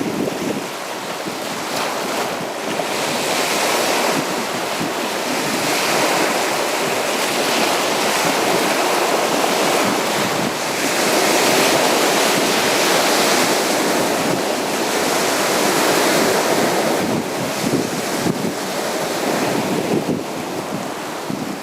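Sea waves breaking and washing on a beach, a continuous surf wash that swells and eases every few seconds.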